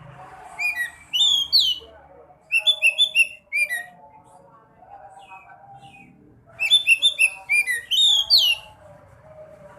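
Sekoci songbird singing: two bursts of fast chirping and whistled notes that sweep up and down, the first about half a second in and the second about six and a half seconds in, with a pause between them.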